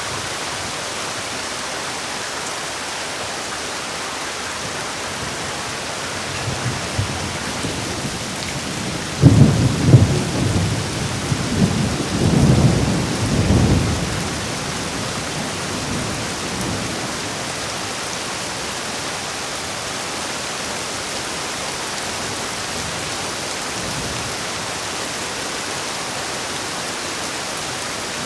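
Steady heavy rain with a roll of thunder: a low rumble builds about six seconds in, cracks loudest around nine to ten seconds, rumbles on in waves and dies away by about seventeen seconds, while the rain hiss goes on unchanged.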